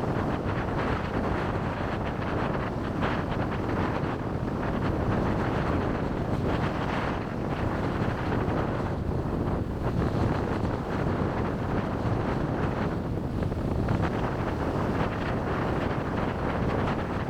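Wind buffeting the microphone of a chest-mounted camera on a moving bike, a steady rushing roar with road and traffic noise underneath.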